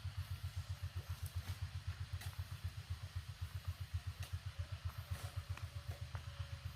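A small engine running at a steady idle, a rapid even low chugging pulse, with a few light clicks and knocks over it.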